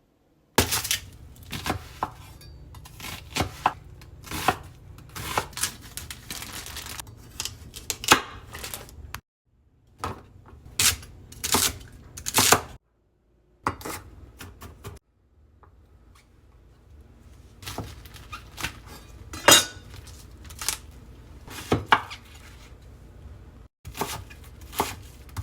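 Kitchen prep sounds in short edited clips: a knife chopping on a cutting board in irregular knocks, with pots, pans and utensils clinking. Each clip cuts off suddenly.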